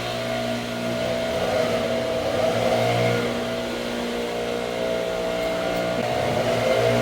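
Car running steadily while driving, a continuous engine and road hum that swells slightly now and then.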